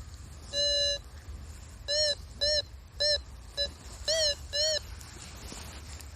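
Metal detector sounding on a target: one steady low beep, then six short beeps, each rising and falling in pitch.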